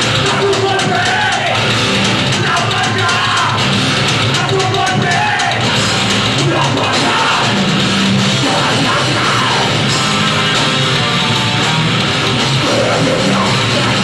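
A heavy rock band playing loudly live, with a vocalist yelling over the guitars and drums.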